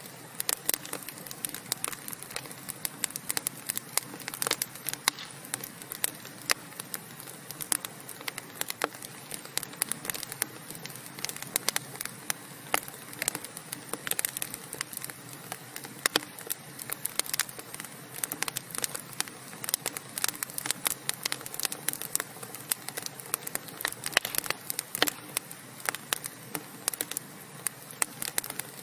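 Burning wood fire crackling continuously, with frequent sharp irregular pops and snaps over a steady hiss of the flames.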